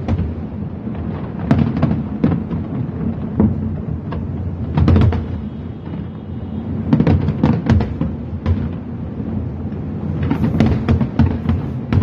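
Fireworks going off: a string of booming bursts at irregular intervals, some in quick clusters, with deep rumbling tails.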